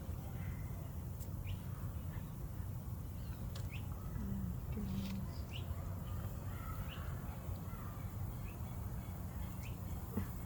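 Scattered short bird chirps and calls over a steady low outdoor rumble.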